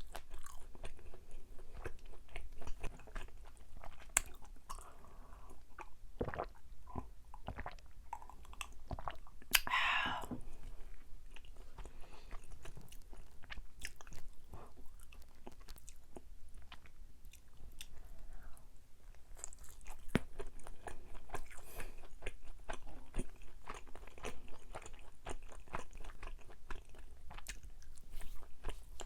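Close-miked chewing and biting of chewy Korean rice cakes: a run of wet, sticky clicks and smacks, with one louder, longer sound about ten seconds in.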